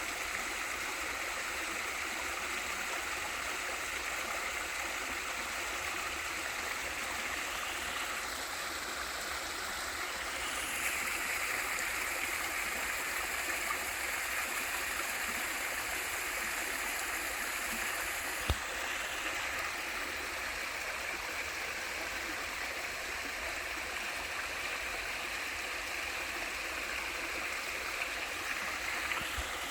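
Waterfall and mountain stream rushing, a steady even wash of falling and flowing water, with one brief sharp click a little past halfway.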